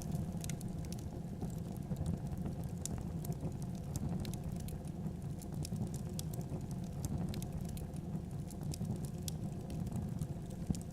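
Fireplace fire crackling, with irregular sharp pops over a steady low rumble of the flames.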